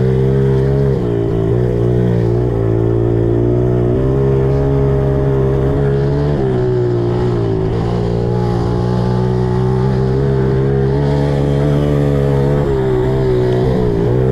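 Small four-stroke pit bike engine running under way, its pitch rising and dipping as the throttle is worked.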